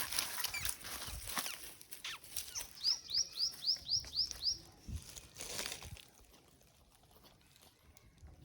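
A bird calls a quick run of about eight sharp, high chirps, about four a second, starting near three seconds in, over scattered clicks and rustling.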